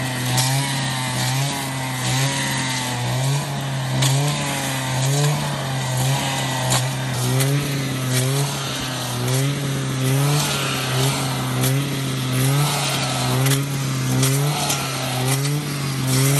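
An engine running steadily, with a regular rise and fall in its note about one and a half times a second and scattered clicks and knocks.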